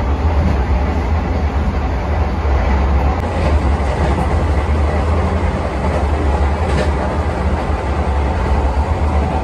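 Vande Bharat Express electric trainset running at speed, heard from inside the driver's cab: a steady, loud low rumble of wheels on rail.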